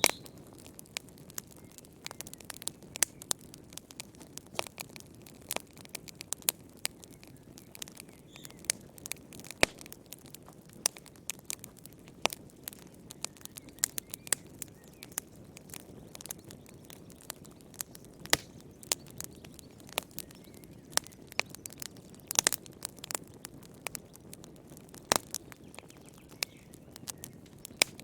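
Wood fire crackling in a fireplace: irregular sharp pops and snaps, several a second, over a soft steady low rush of the flames.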